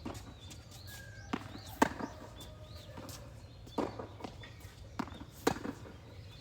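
Tennis rally: sharp knocks of the ball struck by racquets and bouncing on the court, a few seconds apart, with players' footsteps. The loudest hits come just before two seconds in and about five and a half seconds in.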